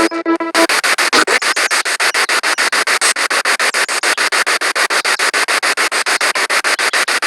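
Spirit box radio sweeping rapidly through the band: loud static hiss chopped into quick regular pulses, about ten a second. A brief pitched tone from a passing station comes through near the start.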